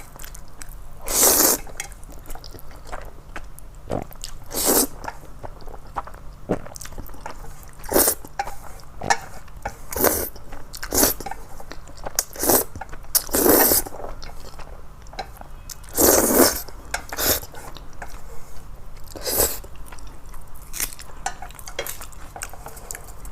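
Close-miked eating of noodles: about eight loud slurps spread through the stretch, with chewing and soft mouth clicks between them.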